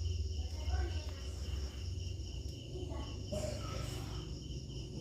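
Insects, likely crickets, chirping steadily in the background over a steady low hum.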